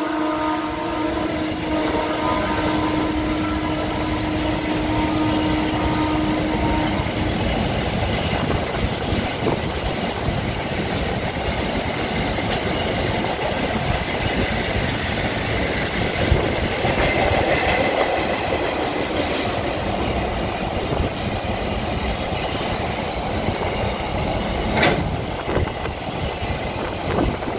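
Container freight train wagons rolling past at speed: a continuous rumble and clatter of steel wheels on rail. A steady whine runs for the first seven seconds or so, and there is a single sharp clank near the end.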